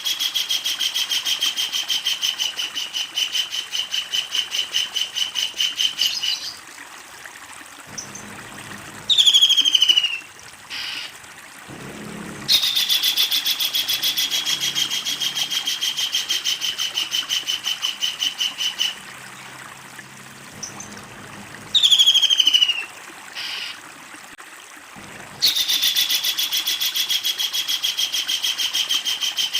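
Kingfisher calling: long runs of rapid, evenly repeated harsh notes, about four or five a second, each run lasting around six seconds. Between the runs come loud, short calls that slide down in pitch.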